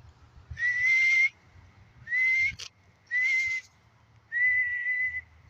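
A person whistling four times to call birds: short, steady, high whistles, each rising slightly at the start, with audible breath around them. The last whistle is the longest.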